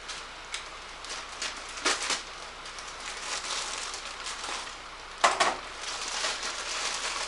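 Cardboard box and packaging being handled and opened: scattered rustles and crinkles, with louder sharp rattles about two seconds in and again just past five seconds.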